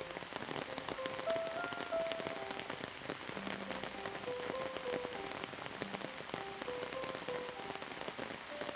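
Steady rain with many individual drops pattering, under a soft, slow melody of short held notes.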